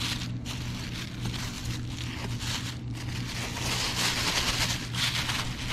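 A steady low hum under an uneven hiss, with short rustling strokes throughout.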